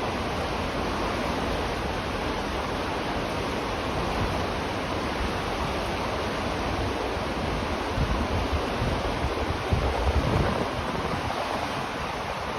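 River water rushing in a steady, even wash. From about eight seconds in, irregular low rumbles and thumps come in on top of it.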